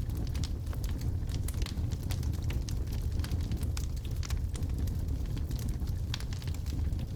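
Wood logs burning in a fireplace: irregular sharp crackles and pops, several a second, over a steady low rumble of the fire.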